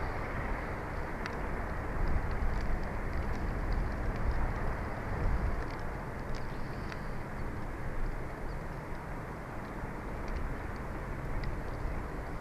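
Wind blowing on an outdoor camera microphone: a steady, gusty rumble, with a few faint high ticks scattered through.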